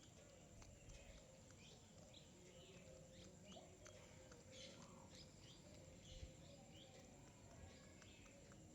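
Small birds chirping faintly, many short chirps scattered throughout, over a low background hum.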